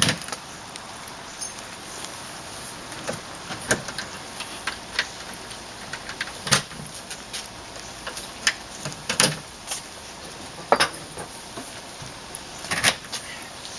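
Irregular knocks and clicks, about ten over the stretch, as an entry door and its frame are handled and adjusted during installation.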